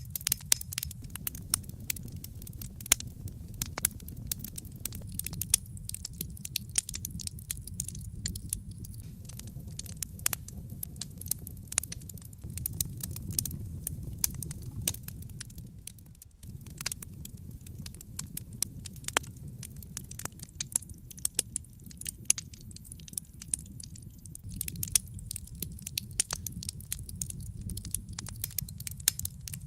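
Wood fire in a fireplace crackling, with many irregular sharp pops and snaps over a low steady rumble of the burning fire. The sound briefly dips about sixteen seconds in.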